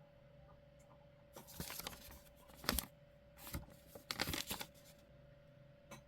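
Rustling and crinkling of packaging being handled, in several short bursts, the sharpest a crackle just under halfway through.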